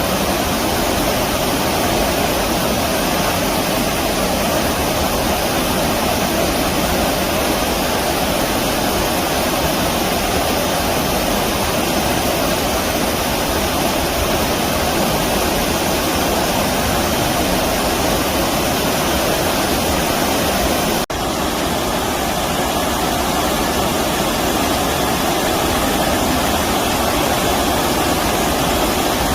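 Steady rush of flowing stream water, with a momentary break about two-thirds of the way through.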